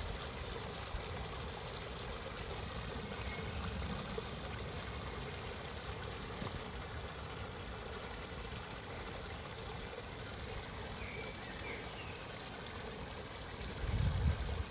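Water of a stream flowing steadily, with a couple of faint, short bird chirps. A low rumble comes in near the end.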